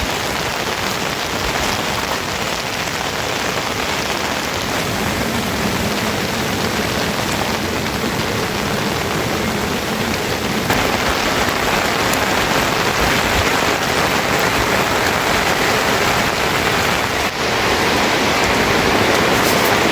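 Steady rain falling, an even hiss that grows a little louder about halfway through.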